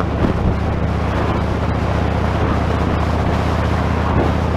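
Wind rushing over the Sena Prism Tube camera's external microphone on a moving motorcycle, a steady loud hiss over the low, even hum of the engine and exhaust. The mic picks up the wind far more than the exhaust.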